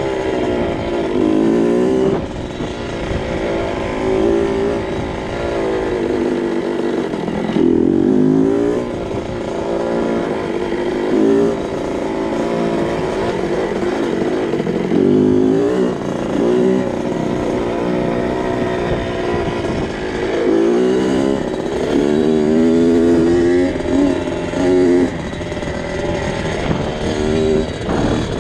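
2002 Kawasaki KX 65's small two-stroke single-cylinder engine being ridden, revving up and dropping back over and over, the pitch rising and falling every second or two through the gears and throttle.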